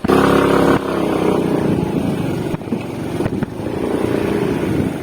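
Motor scooter engine revving hard as it pulls away, loudest in the first second, its pitch rising and dipping as it labours on.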